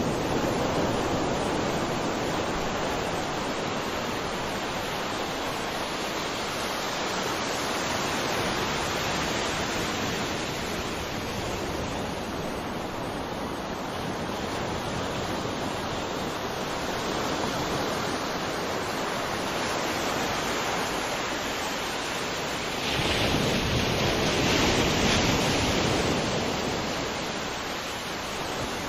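Ocean waves washing onto a shore: a steady hiss of surf that swells and eases slowly, with a louder wave surging in about three-quarters of the way through.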